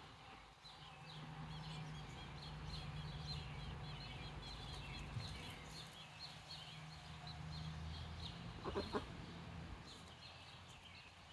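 A young, barely feathered bird peeping over and over in short, high chirps, several a second. A brief lower animal call cuts in about three-quarters of the way through.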